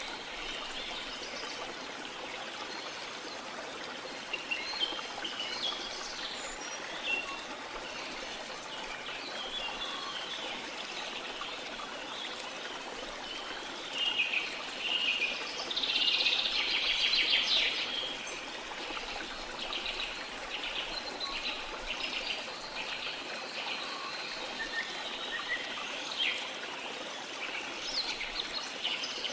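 Rainforest ambience: steady rushing water from a waterfall or stream under many birds chirping and calling, with a dense burst of calls about halfway through.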